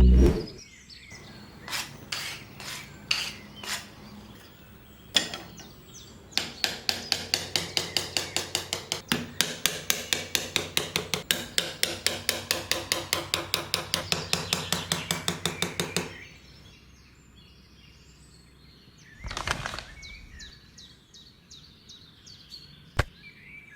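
Small hammer tapping nails into wood: a few separate taps, then rapid steady tapping, about four or five strokes a second, for roughly ten seconds. A short whoosh comes near the end.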